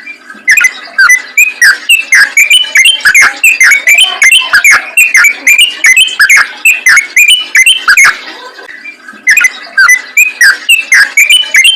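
Yellow-vented bulbul (trucukan) singing a fast, loud run of short bubbly whistled notes, several a second, in the rapid-fire 'ropel' style. There is a brief lull about eight seconds in, then the song resumes.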